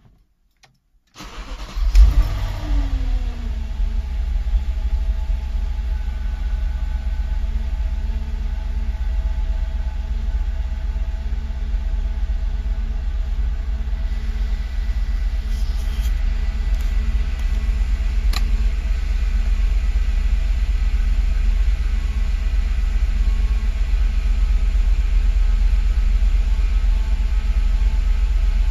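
Car engine starting about a second in, flaring briefly as it catches, then dropping back and settling into a steady idle.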